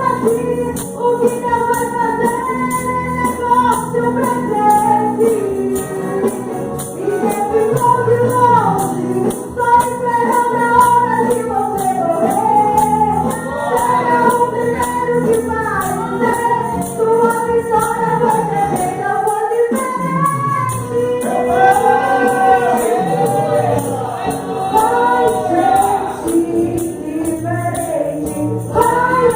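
Worship singing by a group of voices, accompanied by a tambourine shaken to a steady beat.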